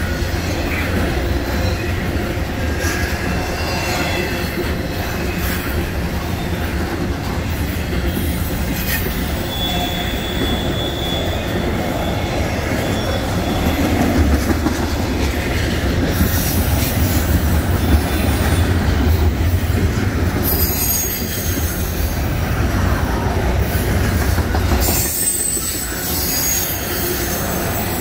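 Intermodal freight train's container well cars rolling past: a steady rumble of steel wheels on the rails, with high wheel squeals breaking in now and then.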